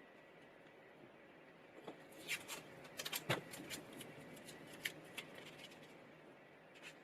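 A scatter of small, sharp clicks and taps of hard objects being handled, clustered between about two and five seconds in, with one more near the end, over a faint steady hum.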